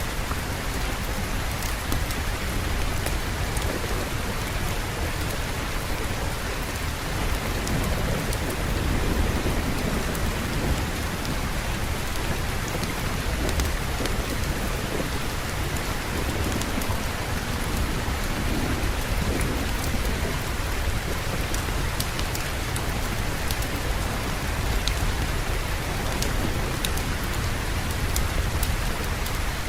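Steady rain falling, with a low rumble of thunder underneath and scattered sharp ticks.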